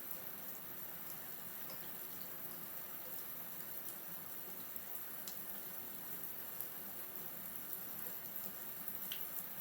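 Steady running or splashing water, with a few faint short high ticks.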